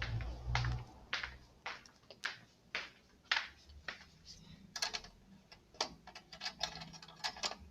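A string of short, light clicks and taps at an uneven pace, sparse at first and coming faster and closer together in the second half, with a low rumble in the first second.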